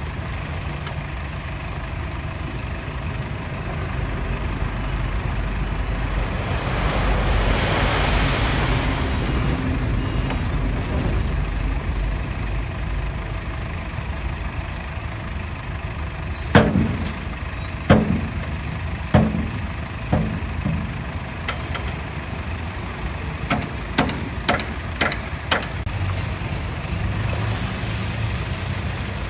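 Heavy diesel earthmoving machinery running steadily, with a hissing swell of noise a few seconds in. Past the middle come several sharp metallic bangs and then a quick run of clanks.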